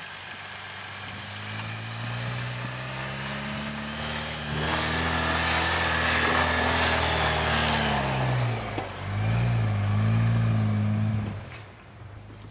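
Jeep Wrangler JL engine through a nearly quiet straight-through exhaust, revving up under load in snow. The revs climb with a rushing hiss, dip briefly, rise again, then fall back to idle near the end.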